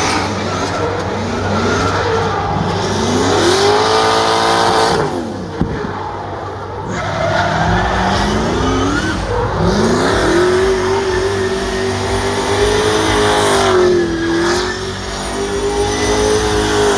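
Race car engine revving hard, its pitch repeatedly climbing and dropping through gear changes and lifts, with a long held high note in the middle.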